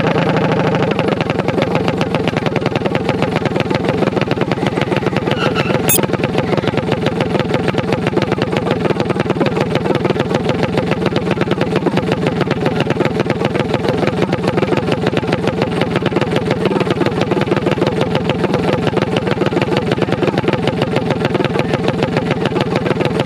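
Mini bike's small engine idling steadily close by, with an even, rapid exhaust pulse.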